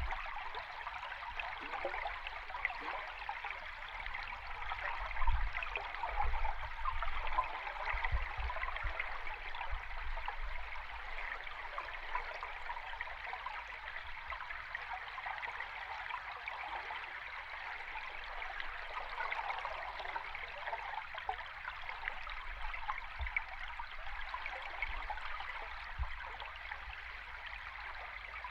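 River stream water heard underwater: a steady rushing, bubbling flow, with a few low thumps about five to nine seconds in and once more near the end.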